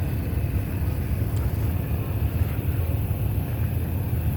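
A steady low rumble, with one faint click about a second and a half in.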